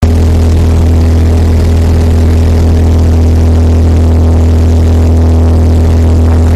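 Cessna 172 floatplane's piston engine and propeller, a loud steady drone with a deep hum that holds constant throughout.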